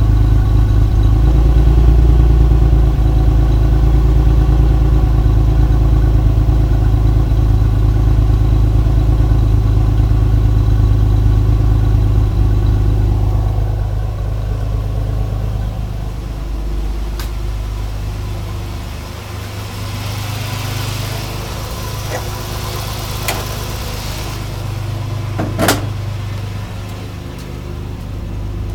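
Car engine idling after a cold start. The engine note drops and quietens about fourteen seconds in, and a few sharp clicks sound near the end.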